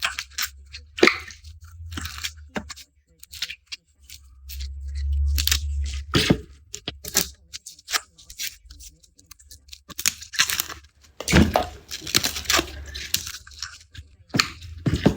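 Garlic being peeled by hand close to the microphone: crisp, irregular crackling and tearing of the papery skins. A low rumble runs under it for a couple of seconds about four seconds in.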